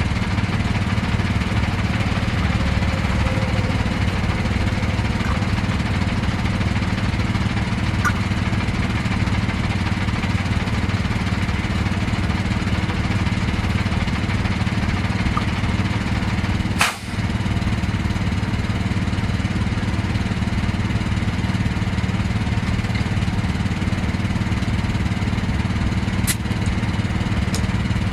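Engine idling steadily, with a brief sharp click and a short dip in level about two-thirds of the way through.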